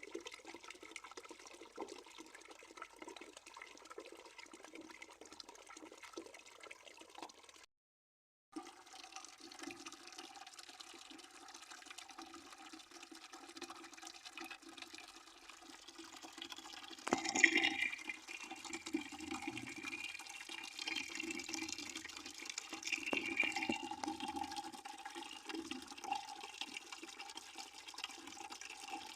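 Water running into a bucket as it fills: a steady splashing hiss with ringing tones. It cuts out for about a second early on, then resumes, and grows louder about two-thirds of the way through, starting with a sudden surge.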